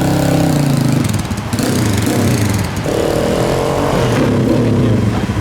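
Small motorcycle engine running through a custom exhaust with a newly fitted silencer, held at raised revs until about a second in, dropping back, then revved and held again for about a second and a half before settling.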